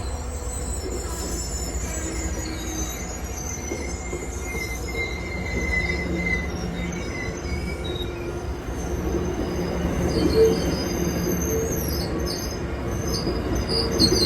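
Train running on rails with a steady low rumble and high-pitched wheel squeal; the squeal tones waver and slide over the last few seconds.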